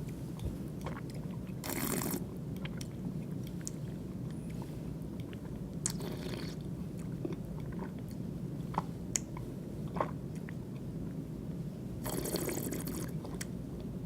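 A person tasting red wine: three short slurps as air is drawn through a mouthful of wine, with wet mouth clicks between them as the wine is worked around the mouth.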